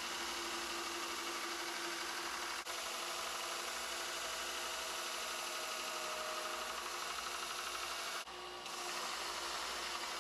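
Steel being ground on an abrasive grinder: a steady rasping hiss with a faint motor tone underneath, briefly interrupted twice.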